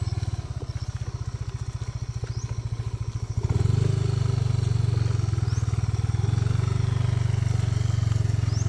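Motorcycle engine running at low speed on a muddy trail, a pulsing low hum that grows louder and steadier about three and a half seconds in.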